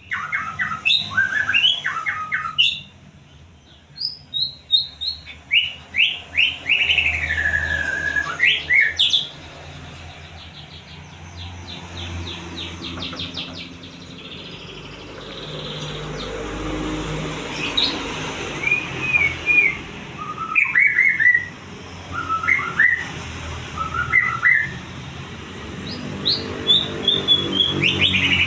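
A songbird singing a varied, busy song: bursts of chirps, a fast run of repeated notes, and whistled phrases that slide down in pitch, with a quieter spell in the middle. A low steady hum runs underneath.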